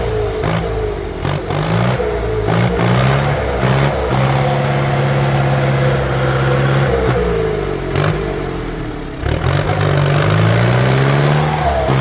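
Heavy diesel engine revving up and down repeatedly, holding a steady high rev for a few seconds in the middle before dropping and climbing again. A few sharp knocks or clanks sound over it.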